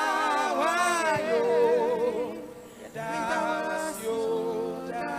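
Worship song sung in Twi, with voices holding long notes that slide between pitches. The singing breaks off briefly about two and a half seconds in, then a new sung phrase begins.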